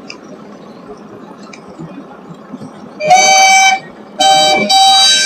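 Steam whistle blown twice: a short toot about three seconds in, then a longer one with a brief break in it, over the low running of tractor engines.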